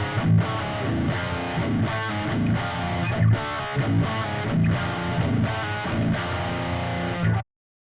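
Seven-string electric guitar with Seymour Duncan Nazgul pickups, played through a Stomp Machines Prometheus high-gain distortion pedal (a Revv G3 clone) into a cabinet impulse response. It plays heavily distorted, palm-muted metal riffing, then cuts off suddenly near the end.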